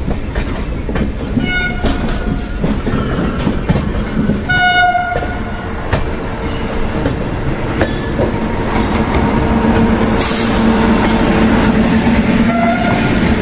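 An Indian Railways electric locomotive horn gives two short blasts, about two and five seconds in, the second louder, over the rumble of trains. The Dibrugarh–New Delhi Rajdhani Express then runs through on the next track, its locomotive and coaches going by with a steady hum and the clatter of wheels on the rails.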